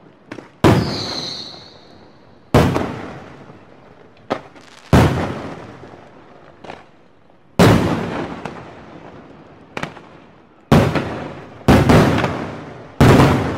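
Aerial fireworks bursting one after another. Each sharp bang fades over a second or two, with a few fainter pops in between, and the bangs come faster near the end.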